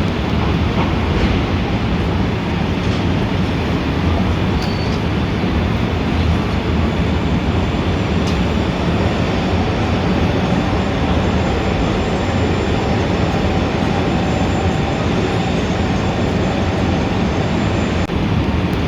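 Steady, dense city traffic noise with a heavy low rumble, from a busy street in Times Square.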